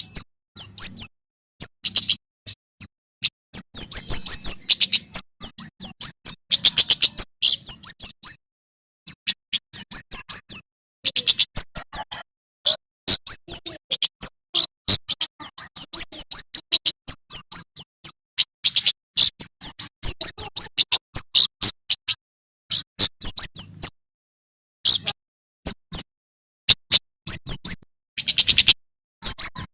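Male prenjak keres (kemade) songbird in full song: loud, rapid volleys of sharp, high chirps fired in quick succession, broken by short pauses.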